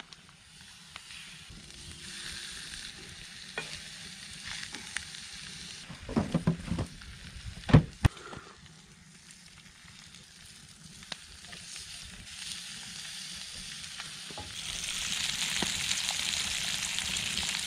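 Bratwurst patties and bacon sizzling in a skillet over a campfire, the hiss growing louder near the end. A few sharp knocks and a clatter about halfway through, the loudest sounds in the stretch.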